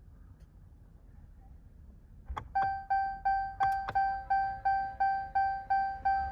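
A Ram pickup's dashboard warning chime dings about three times a second with the ignition switched on. It starts a little over two seconds in, right after a couple of clicks. A faint steady hum comes in about four seconds in: the electric fuel lift pump priming the new fuel filters.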